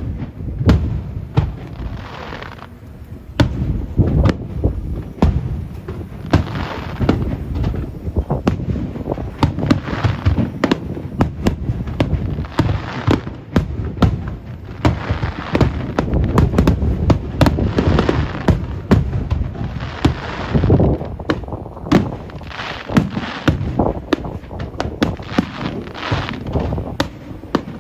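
Fireworks display: a rapid, continuous barrage of aerial shells bursting with deep booms and crackling, echoing one into the next.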